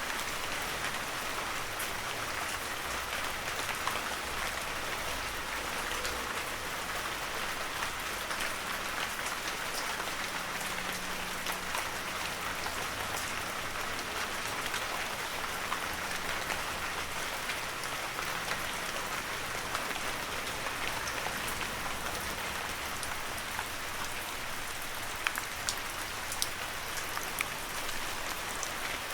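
Heavy rain falling steadily, an even hiss of rain with many small drop impacts and a few sharper drips near the end.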